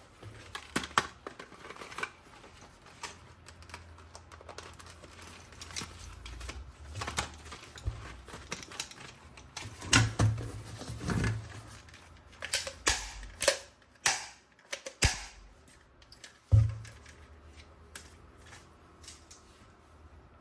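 Irregular clicks, taps and knocks from objects being handled by hand, with a few sharper clicks and low thumps around the middle.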